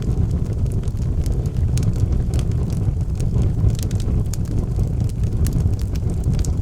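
Wood logs burning in a fireplace: a steady low rumble of the fire with frequent small, sharp crackles and pops.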